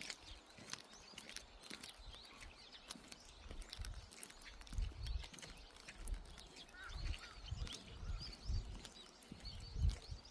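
Raindrops ticking in quick, irregular drips, with small birds chirping and a few low thumps, the loudest near the end.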